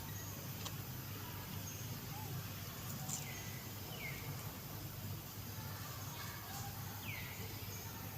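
Outdoor ambience: a steady low hum with a few short, falling chirps, three of them about three, four and seven seconds in, and faint high peeps.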